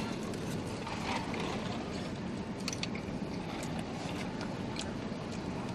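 People chewing boneless chicken wings, with faint scattered clicks and rustles from handling paper takeout boxes, over a steady low hum.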